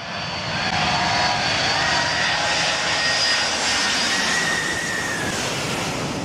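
Jet airliner passing low overhead, a loud, steady rush of jet engine noise that swells in over the first second, with a faint whine that drifts slightly lower in pitch as it goes by.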